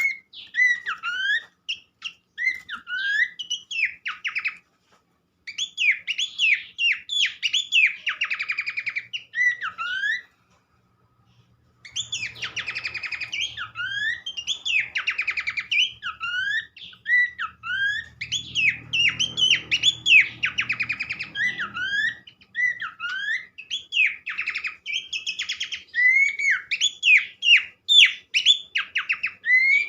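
Pelanduk semak babbler song: a fast, continuous run of loud whistled notes with quick upward and downward slurs and short trills, broken by one brief pause about a third of the way through.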